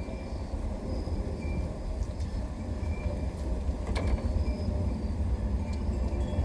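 Low, steady rumble of a passing train, slowly growing louder, with a sharp click about four seconds in.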